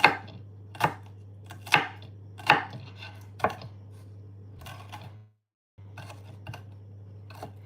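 Kitchen knife chopping food on a cutting board: five sharp chops about a second apart, then lighter, fainter cuts, over a steady low hum. The sound drops out for about half a second a little past five seconds in.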